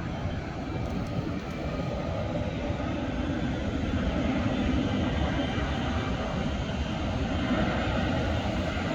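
Jet airliner engines: a steady, deep rumble that grows slowly louder.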